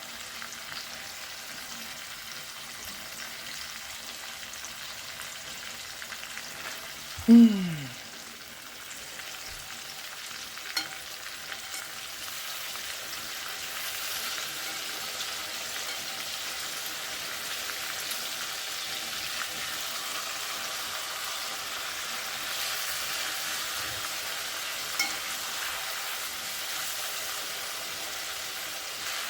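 Food frying in hot oil in a pot: a steady sizzle that grows a little louder after about twelve seconds. About seven seconds in, a short falling-pitch sound stands out as the loudest moment, and a couple of faint clicks come later.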